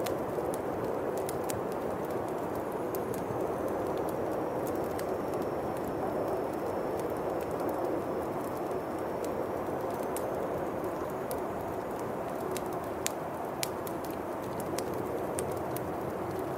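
Bonfire crackling, with irregular sharp pops scattered throughout, over a steady howling winter wind.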